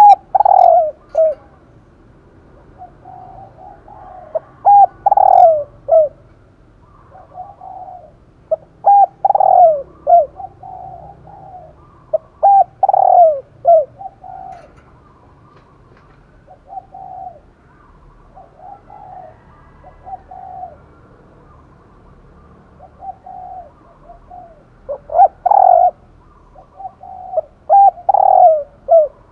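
Bird calls: groups of short gliding notes repeated every few seconds, with brief pauses between the groups.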